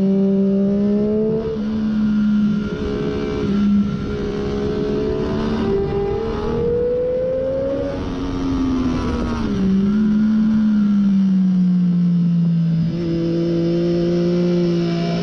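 2014 Triumph Daytona 675's three-cylinder engine with a Hindle slip-on muffler, heard from on board at track speed over wind noise. The engine note climbs in steps with brief breaks several times in the first half, falls away about eight seconds in, then holds steady at a lower pitch.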